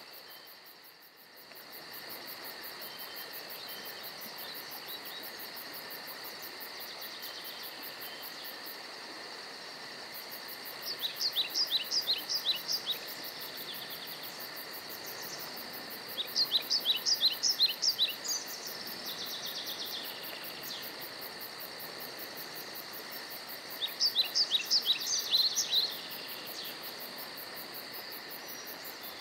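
Steady chorus of crickets and other insects with a high, even drone. A bird sings three bursts of rapid, sharp chirps, each lasting about two seconds: one about a third of the way in, one past the middle and one near the end.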